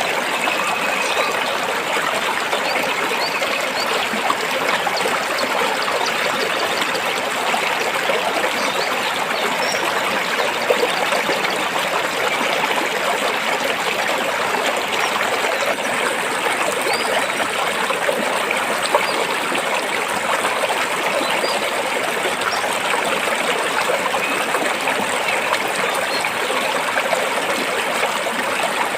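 A stream flowing and trickling over rocks, a steady rush of water that stays level throughout.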